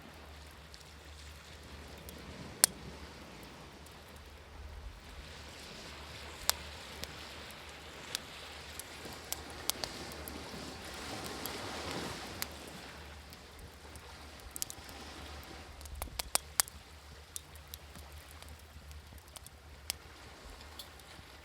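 Wood fire crackling with scattered sharp pops, while a sea wave swells in over several seconds and washes back out in the middle.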